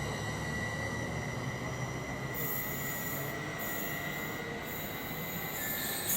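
Class 745 electric multiple unit pulling out of the station. Its low rumble fades over the first second or two under a steady high-pitched tone. From about two seconds in come several stretches of very high hiss or squeal.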